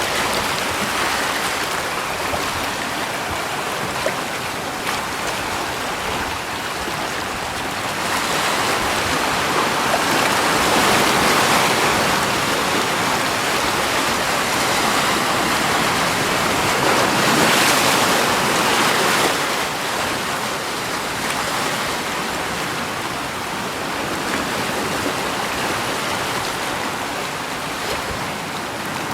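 Steady rush of running water that swells louder for several seconds around the middle, then eases back.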